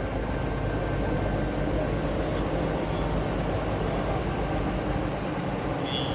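Steady vehicle noise from a street, with the low hum of a heavy truck engine running under it.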